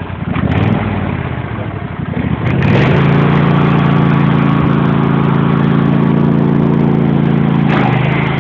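Lawn mower engine running, revved up about two and a half seconds in and held at a steady higher speed, then easing back near the end.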